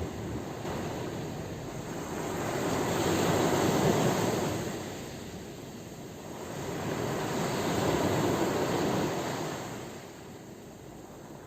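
Sea waves rushing in and washing back, in two slow swells that peak about four and eight seconds in, then ebbing toward the end.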